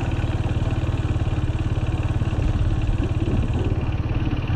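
Farm motorbike engine running steadily at low revs, an even pulsing putter.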